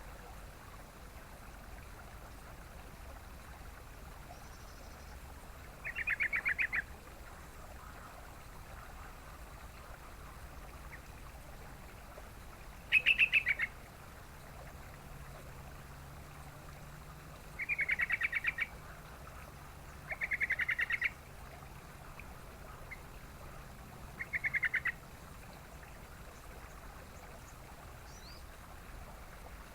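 Yellow-vented bulbul calling: five short chattering phrases of quick repeated notes, a few seconds apart, over a faint steady background hiss.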